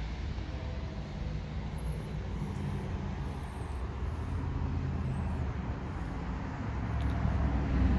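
Low, steady rumble of an idling car engine, growing a little louder near the end.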